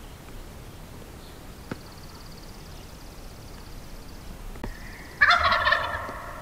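Wild turkey gobbling once, loud and rattling, about five seconds in.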